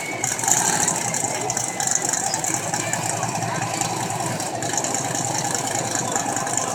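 Outlaw 10.5 drag race car's engine idling steadily.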